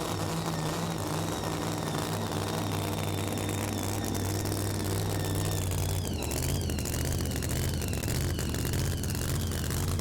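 Super modified two-wheel-drive pulling truck's engine running hard under load down the track, with a high whine over the deep engine note. About six seconds in, the note turns rough and wavering and the whine drops, as the truck nears the end of its pull.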